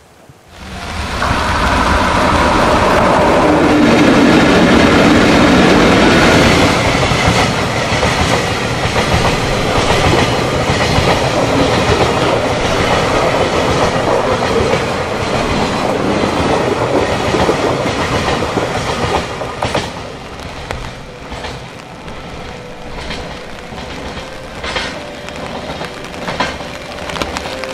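Freight train of tank wagons passing close: a steady rumble and clatter of steel wheels on the rails. It is loudest in the first six seconds or so, then eases after about twenty seconds to scattered clicks as the last wagons run over the rail joints.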